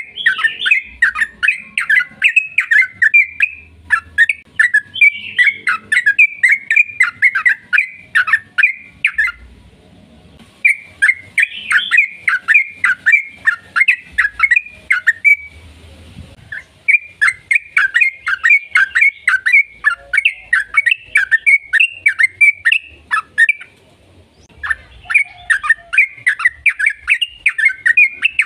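Yellow-vented bulbul (trucukan) singing its long, rapid song: runs of quick chattering notes several seconds long, with short pauses between them.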